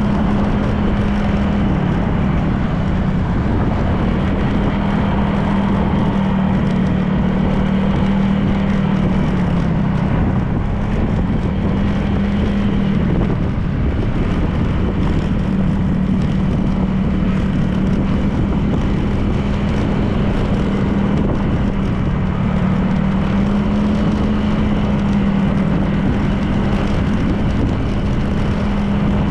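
Honda PCX 160 scooter's single-cylinder engine running at a steady cruise, its note dipping a little and rising again a few times, over steady wind and road noise.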